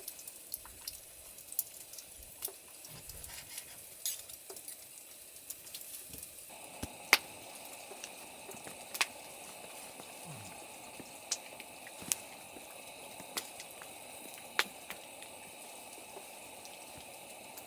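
Wood campfire crackling, with sharp irregular pops about once a second over a steady sizzling hiss, as a pork loin turns on a rotisserie above it. About six seconds in, the hiss grows fuller.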